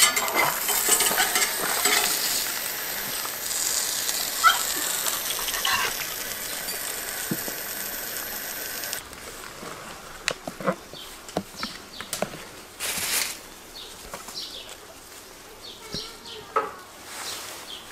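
Egg-soaked ham-and-cheese sandwich sizzling in a frying pan, with a metal spatula clicking and scraping against the pan. About halfway the sizzle cuts off abruptly, leaving a quieter stretch with scattered light clicks and knocks.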